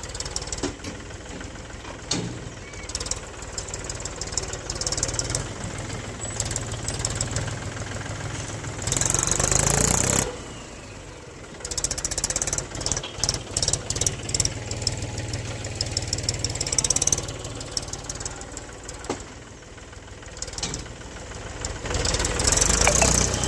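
Mahindra tractor's diesel engine working a front loader in sand, running with a clattering knock. It surges to its loudest about nine seconds in and eases off twice.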